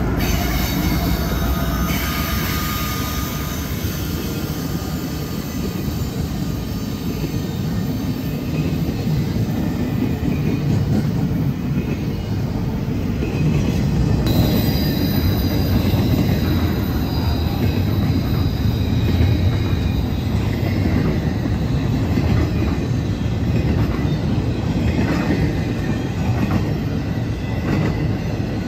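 Diesel-hauled freight train passing close by: a heavy, steady rumble of locomotives and then rail cars rolling over the track, with wheel clicks and a high steady wheel squeal after an abrupt change about halfway through.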